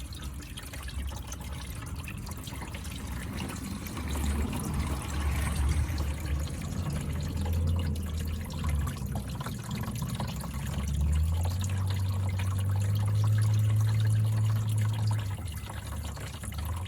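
Engine coolant draining from a car's radiator drain and splashing into a makeshift container, a steady run of liquid with a low rumble underneath that swells louder a little past the middle.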